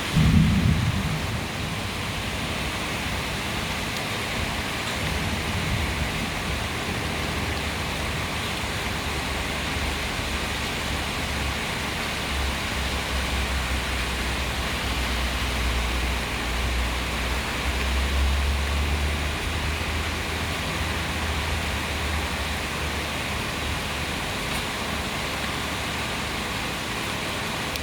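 Heavy rain pouring steadily in a downpour. A brief loud burst comes right at the start, and a low rumble swells and fades in the middle.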